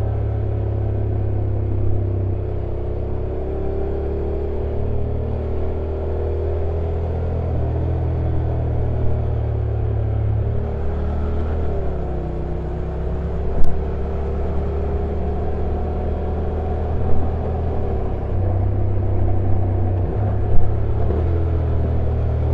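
Honda NC750X motorcycle's stock parallel-twin engine running at low, fairly steady revs on a downhill ride, its note stepping up and down every few seconds, over road and wind noise. A sharp click about 14 seconds in and two smaller knocks later.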